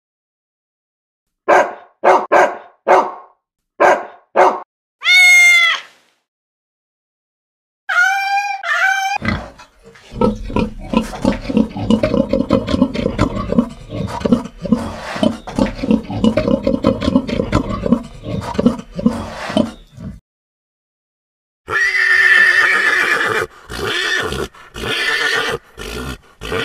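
A run of farm and pet animal calls in turn: a dog barking about five times, a cat meowing once, a pig squealing and then grunting steadily for about ten seconds, and, after a pause, a horse whinnying followed by shorter calls.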